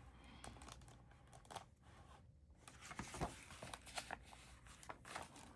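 Near silence: quiet room tone with faint, scattered rustles and small clicks from a picture book being handled.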